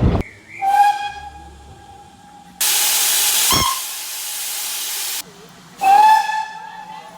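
Steam locomotive whistle sounding two short single-note blasts, each dying away over a second or two. Between them a loud, steady hiss of escaping steam starts and stops abruptly.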